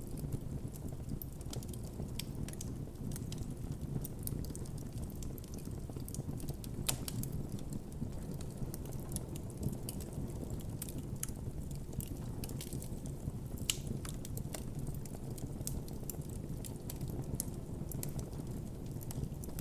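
Campfire burning with a steady low rumble and scattered sharp crackles and pops from the burning wood.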